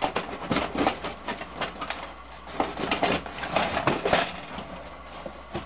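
Irregular knocks, clicks and scrapes from a taped-up shipping box being handled, with a few louder knocks and scrapes about three to four seconds in.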